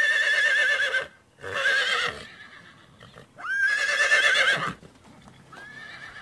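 Horse whinnying: three loud whinnies of about a second each with a quavering pitch, then a fainter one near the end.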